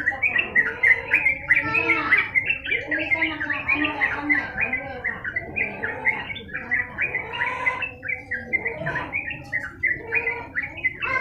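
Yellow-vented bulbul (trucukan) singing continuously, a dense run of quick bubbly, chattering phrases with no pauses.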